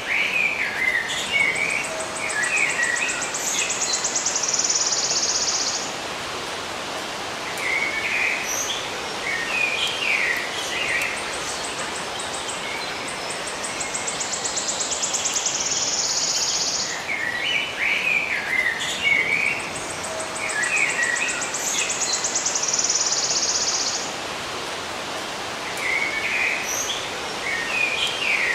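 Birds chirping in short clusters of calls over a steady hiss of outdoor ambience, with long, high, buzzing trills between them. The same sequence comes round again about every 17 seconds, as in a looped recording.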